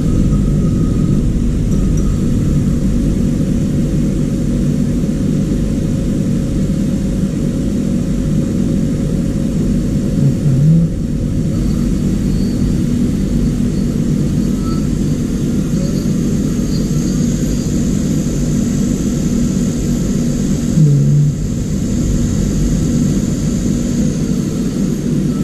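A loud, steady machine roar with a low hum. Two brief low blips stand out, about ten seconds in and again about ten seconds later, and a faint high hiss joins past the middle.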